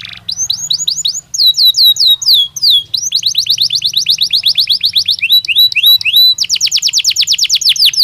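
Belgian canary singing a continuous song of rapidly repeated downward-sweeping whistled notes. Fast trills of about ten notes a second come around the middle and again near the end, with slower sweeping phrases between them.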